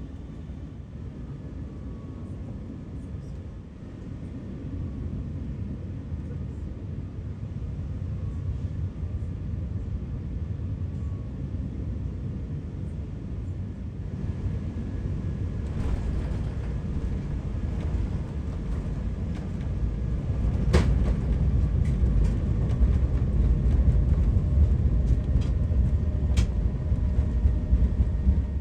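Airbus A380 cabin noise during landing: a steady low rumble that grows louder about two-thirds of the way in. A sharp thump about 21 seconds in marks the wheels touching down, followed by a heavier rumble of the landing roll on the runway.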